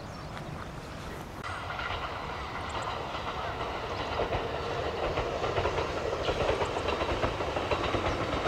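Kintetsu electric commuter train running past, growing louder from about a second and a half in, with a steady rhythm of wheel clicks over the rail joints as it nears.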